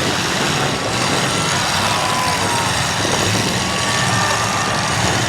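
Demolition derby cars' engines running together in a steady, loud mix, with faint rises and falls in pitch as they rev.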